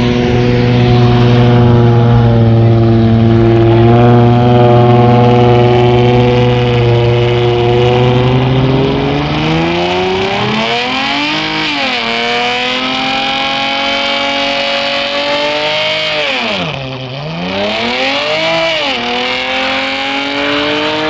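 A car engine held at steady high revs for about nine seconds, then revved up and down, its pitch dropping sharply and climbing again several times.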